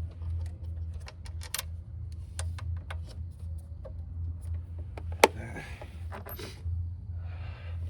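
Light metallic clicks and ticks of bolts and a hand tool being handled on the engine, with one sharp click about five seconds in, over a steady low hum.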